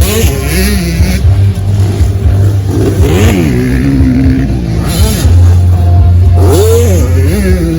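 Motocross dirt bike engines revving, their pitch rising and falling repeatedly as the riders open and close the throttle, with a steady low drone underneath.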